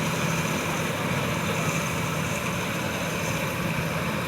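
Engine of farm machinery running steadily: a constant drone with a low steady hum under a broad hiss.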